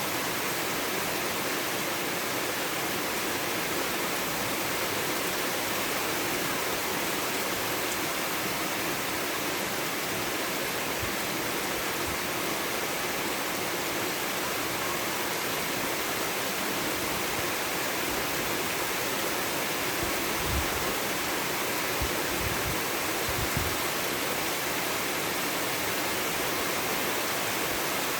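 Steady heavy rain falling, an even hiss of water, with a few faint low thumps in the second half.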